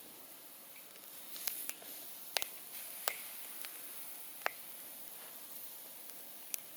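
Wood campfire burning, with sharp crackles and pops at irregular intervals, about half a dozen, over a steady hiss of the flames.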